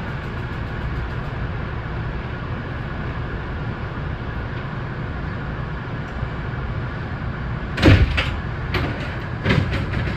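Kintetsu 6820 series train standing at a station platform with a steady hum. About eight seconds in comes a heavy knock, followed by a few lighter knocks.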